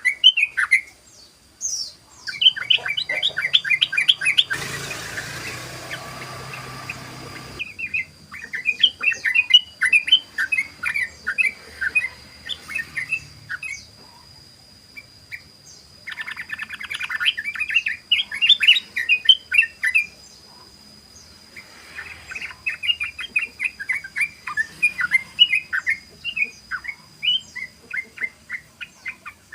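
Yellow-vented bulbul (trucukan) singing its 'ropel' song: several long runs of rapid chattering notes with short pauses between them. About five seconds in, a burst of rushing noise lasts about three seconds.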